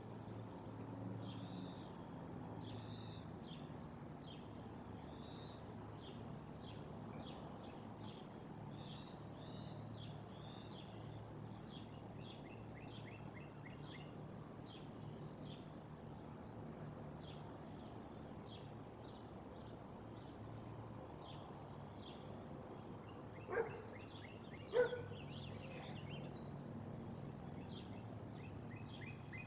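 Many short, high-pitched bird chirps and calls, in scattered runs, over a low steady rumble. Near the end come two sharp knocks about a second apart.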